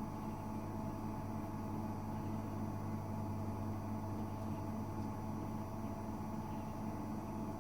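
Gorenje UseLogic 65165 washing machine running steadily, a constant low motor hum with a thin steady whine above it.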